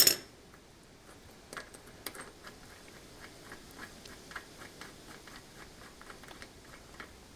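A sharp metal clink at the very start, then faint, irregular light ticks and clicks, a couple a second, from small steel parts and tools being handled while a castle nut is lined up with the split-pin hole on the quad bike's front axle.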